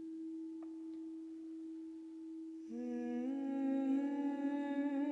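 A single struck note rings on as one steady tone. About two and a half seconds in, a woman's voice joins it, humming a low held note that steps up a little and then wavers, as sound-healing toning.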